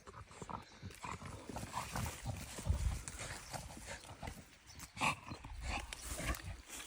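Dogs moving about on the ground: irregular paw thuds and scuffles, loudest a little before the middle and about five seconds in.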